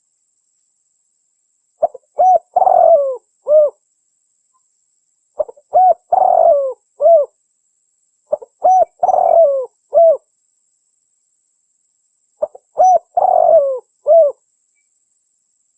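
Spotted dove (tekukur) cooing, a recorded call used to lure wild doves. The phrase comes four times, about every three and a half seconds: a few short coos, a longer rising-and-falling coo, then a last short coo.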